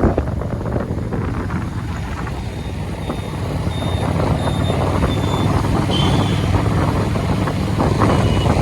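Road noise of a motorcycle ride in traffic: steady engine and tyre rumble with wind on the microphone. Over it comes a run of short, high electronic beeps about twice a second, starting a couple of seconds in, then two single beeps later.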